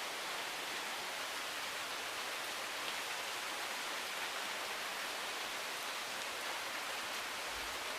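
A steady, even hiss with no pitch or rhythm.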